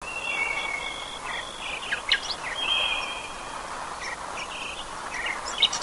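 Songbirds singing and chirping, with held whistled notes and quick chirps, over a steady outdoor background hiss.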